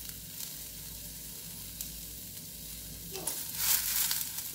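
Grated coconut, shallots and whole spices sizzling steadily as they roast in coconut oil in an aluminium kadai, with a louder rush of sizzle and rustle about three seconds in.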